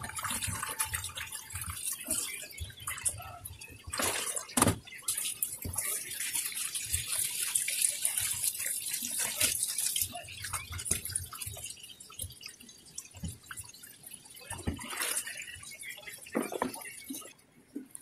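Tap water running into a plastic basin of small fish in a stainless steel sink, with splashing and knocks as hands rub and rinse the fish. The running water stops shortly before the end.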